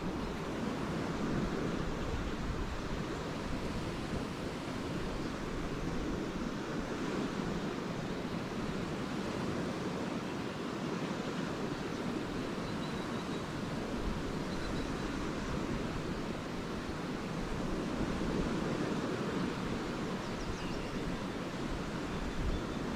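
Lake Erie waves washing on the shore in a steady, continuous wash that swells a little about two-thirds of the way through, with a low rumble of wind on the microphone.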